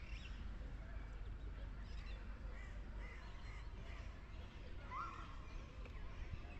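A bird calling a few times in short calls, the clearest a brief rising call about five seconds in, over a steady low street rumble.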